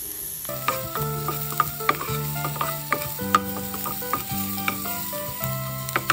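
Minced garlic and shallots sizzling in hot oil in a nonstick pan while a wooden spatula stirs them, with sharp taps of the spatula against the pan now and then.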